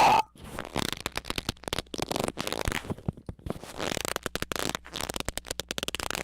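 A brief loud squeak right at the start, then a long, uneven run of rapid dry clicks and crackles, like something being rubbed or scratched.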